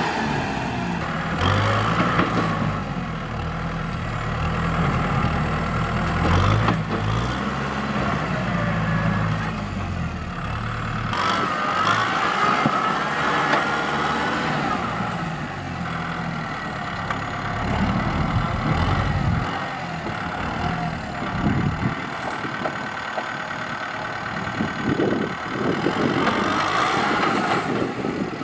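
Kubota M6040SU tractor's diesel engine running under load while pushing soil, its pitch rising and falling repeatedly as the load changes, then easing off in the last third.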